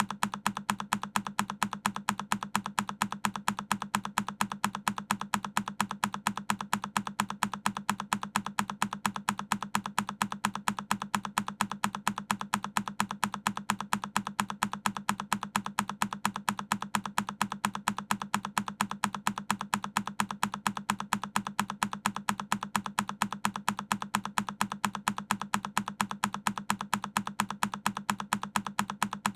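A single key press on a Keychron K10 mechanical keyboard, looped so the same click repeats at a fast, perfectly even rate.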